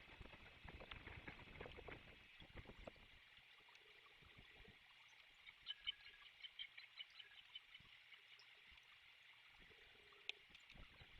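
Faint outdoor ambience from a nest-cam microphone. It opens with a few seconds of rustling knocks, under a steady high hiss. About six seconds in comes a quick run of short, high bird chirps, and a single sharp click follows near the end.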